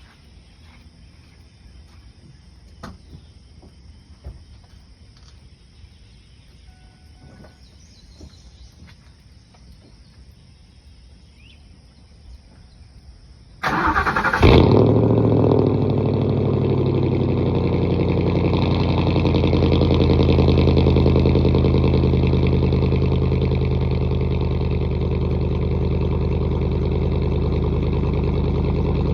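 A 2007 Ford F-150's 4.6-litre V8 is cold-started through a muffler-delete exhaust. There is a quiet stretch with a few faint clicks, then about halfway through the starter cranks briefly and the engine catches with a loud burst. It then settles into a steady idle.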